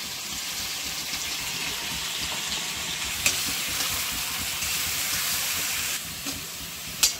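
Chicken pieces sizzling in hot oil in a steel kadai as they are stirred with a metal spatula, a steady hiss with a sharp clink of the spatula on the pan about three seconds in and again near the end.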